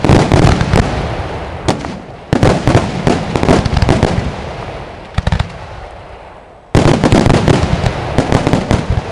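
Aerial fireworks going off in rapid volleys of bangs and crackles. A new wave starts suddenly about two seconds in and another near seven seconds, and each fades before the next.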